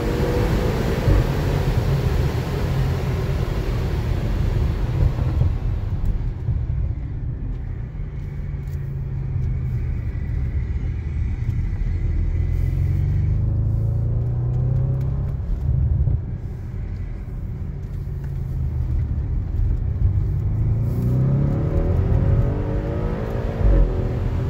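Audi RS6 Avant C7's 4.0 twin-turbo V8, heard from inside the cabin. Its pitch rises under hard acceleration in the first second, and it runs loud at speed for a few seconds. It then settles into a low rumble as the car slows, and revs up again with a rising pull near the end.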